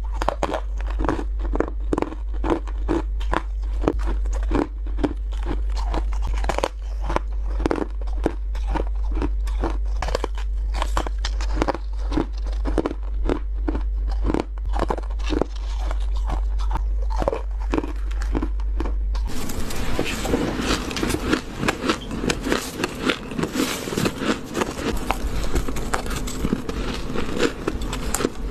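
White ice being bitten and chewed close to the microphone: crisp crunches one after another, turning denser and hissier about nineteen seconds in.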